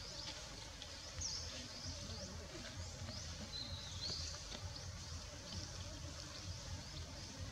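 Birds chirping, many short high chirps repeating irregularly, over a steady outdoor background hiss and low hum.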